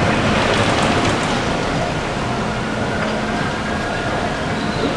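Amusement park ride running on its track: a steady rumbling hiss with faint held tones, swelling into a louder rush about a second in.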